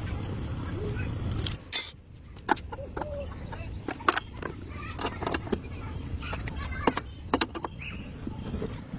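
Metal tools and engine parts clinking and tapping in a run of separate sharp clinks, after a steady low rumble that stops abruptly about two seconds in.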